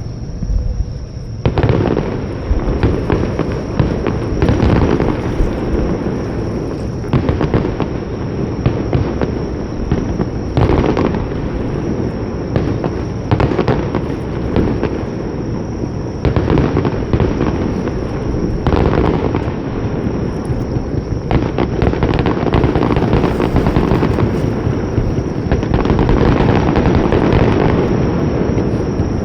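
Aerial fireworks shells bursting one after another in a dense barrage, deep booms mixed with sharp cracks, growing louder and more continuous near the end.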